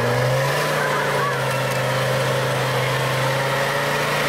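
Off-road 4x4's engine revving up, then held at a steady high pitch from about half a second in as it pulls the vehicle up a steep muddy slope.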